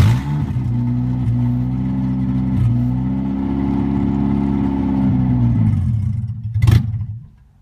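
Nissan KA24DE 2.4-litre four-cylinder engine catching and running, heard from inside the car. With no throttle, its revs rise by themselves to about 2000 rpm and sink back. Near the end there is a sharp thump and the engine stalls: the dying-at-idle fault the owner is chasing.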